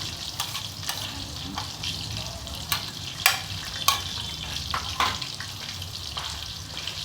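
Pan sizzling as mushrooms are stirred into the chicken, with a utensil clicking against the pan several times, the sharpest about three and four seconds in.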